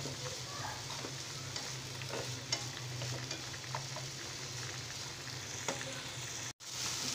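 Diced vegetables and chicken mince sizzling in oil in a frying pan while a spatula stirs them, with small clicks and scrapes of the spatula against the pan. The sound cuts out for an instant near the end.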